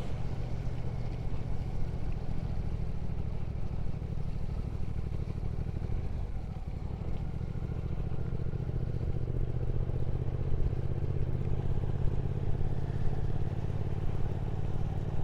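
Motorcycle engine running steadily at cruising speed, a low even drone under a steady rush of road and wind noise.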